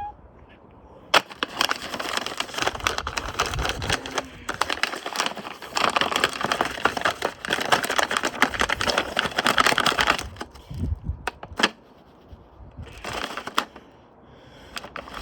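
Washing machine on an off-balance run, rattling and banging in a fast, dense clatter as it shakes and shifts about. The clatter stops about ten seconds in, then returns briefly near the end.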